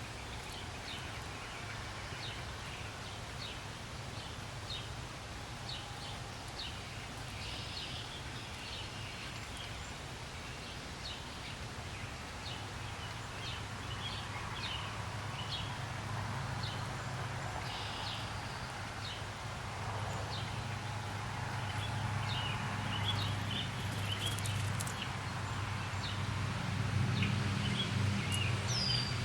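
Outdoor ambience with a steady low rumble that grows louder in the second half. Over it come many short, high bird chips at irregular intervals, with a couple of brief longer calls.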